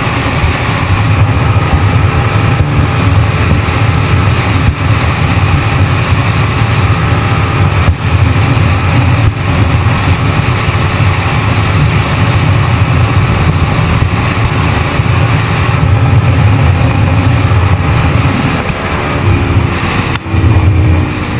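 A loud, steady engine rumble, with a falling tone near the end as it slows.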